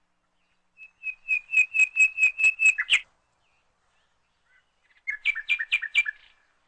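Bird chirping: a fast run of repeated high whistled notes, about five a second, lasting about two seconds, then a second, shorter run of quicker notes about five seconds in.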